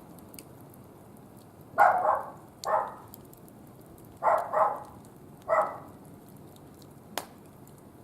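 A dog barking five times, in two pairs and a single, over the faint ticking crackle of a small wood fire, with one sharper crack near the end.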